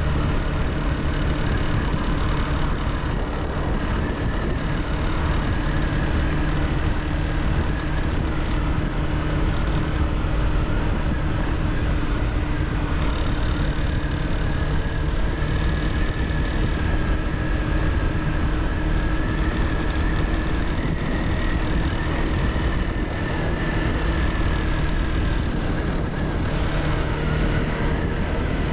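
Honda CBR300R's single-cylinder engine running steadily at an even pitch, heard from on the motorcycle.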